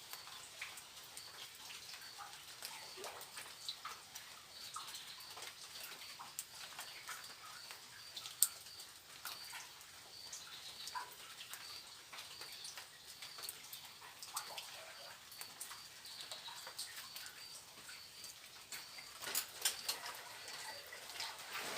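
Forest insects calling: a high, evenly pulsing chirp over a steady high hiss. Scattered small clicks and knocks come through it, more of them near the end.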